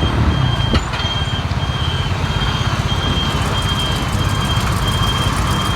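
Truck engine running with a rapid, steady rumble, and a high reversing beeper sounding over it in repeated short beeps.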